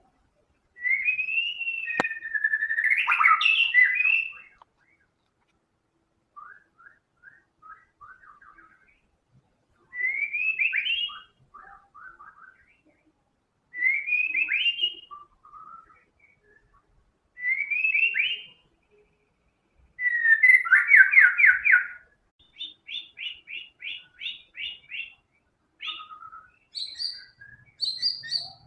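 White-rumped shama (murai batu) in full song, with short phrases every few seconds. Rising whistled notes run into quick trills, and there is a fast series of repeated notes late on. The fill-in phrases are partly mimicked from other birds.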